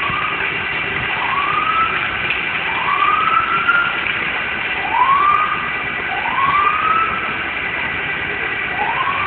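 Emergency vehicle siren giving a series of short rising whoops, irregularly spaced a second or two apart, over steady city traffic and engine noise.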